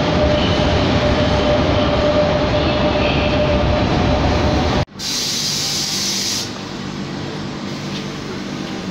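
Electric commuter train running through an underground station, a loud steady rumble with a held tone. Just before the middle it cuts off abruptly, and a quieter passage follows: a hiss lasting about a second and a half, then a low steady hum.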